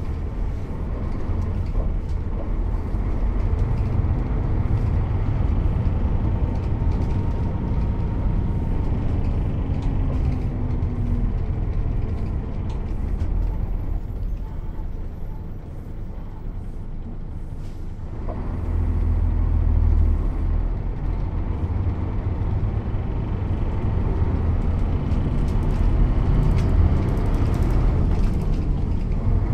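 Mercedes-Benz O 407 city bus's six-cylinder diesel engine under way, the revs rising and falling. It eases off to a quieter stretch in the middle, then pulls hard again about 18 seconds in.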